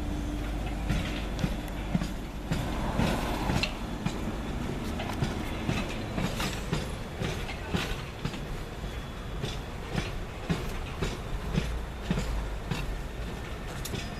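Train running along the track, its wheels clattering over rail joints with a steady rumble underneath.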